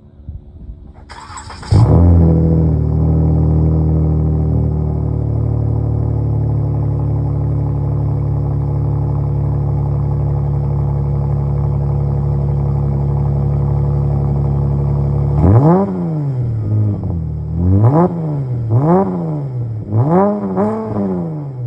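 2019 Chrysler 300S 3.6L Pentastar V6 through a Flowmaster FlowFX exhaust with the rear resonator deleted, cold-started: a brief crank about a second in, a loud catch and flare, then a steady high cold idle. Near the end the engine is revved about five times in quick succession, each rev rising and falling in pitch.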